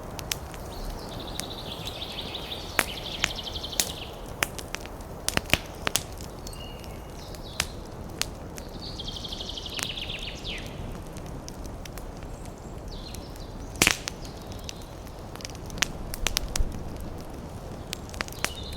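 Wood fire crackling, with many sharp irregular pops over a steady low rumble, one especially loud pop about two thirds of the way through. A couple of short high chirring bursts come and go, near the start and about halfway.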